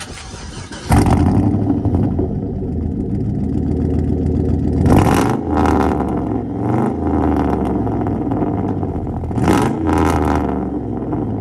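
Chevy Silverado engine with a straight-pipe exhaust and two glass-pack mufflers starting up about a second in and running loud. The throttle is blipped a few times around the middle and near the end.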